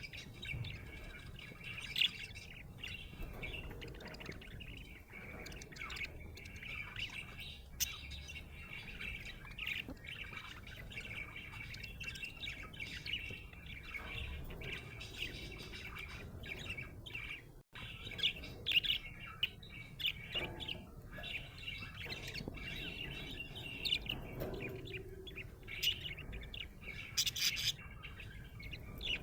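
Budgerigar chirping and warbling on and on, a steady chatter broken by many short, sharp high chirps.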